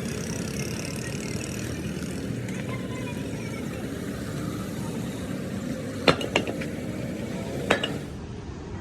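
Steady rumble of passing motor vehicles, with three sharp metallic clinks, two close together about six seconds in and one more a second and a half later.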